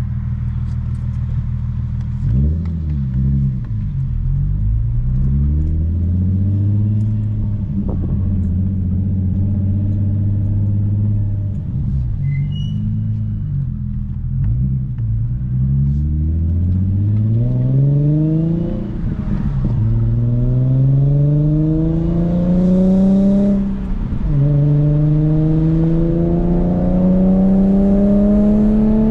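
Nissan VQ37VHR V6 running through a custom titanium single-exit exhaust while driving. Its pitch repeatedly climbs and then drops back as it pulls through the gears, with a stretch of steady cruising in between.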